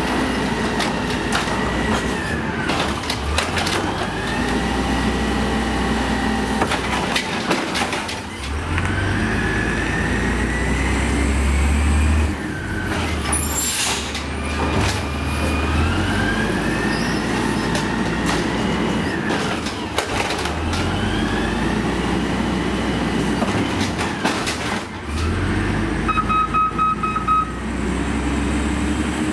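Amrep automated side-loader garbage truck at work: its diesel engine revs up and drops back again and again, with a whine that rises and falls each time, and several sharp clanks in between. Near the end comes a short run of quick beeps.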